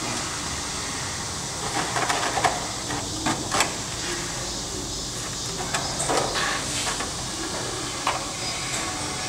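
Urethane foam gun dispensing expanding foam into a wall gap in short, irregular hissing spurts, with a few sharp clicks in between.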